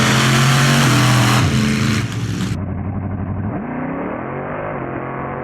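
A vehicle engine revving, its pitch rising, holding and falling several times. About two and a half seconds in, the sound changes abruptly and turns duller, with the engine still revving.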